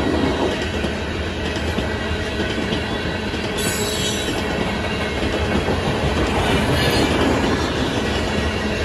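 Freight cars of a coal train rolling steadily past a grade crossing: a continuous rumble and clatter of steel wheels on rail. A high-pitched wheel squeal rises out of it about three and a half seconds in, and a fainter one comes around seven seconds.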